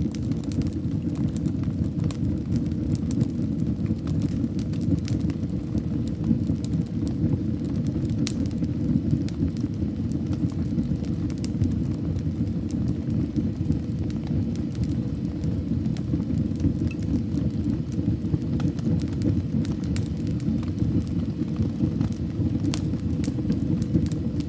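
Fire burning in a fireplace: a steady low rumble of flames with frequent, irregular crackles and pops throughout.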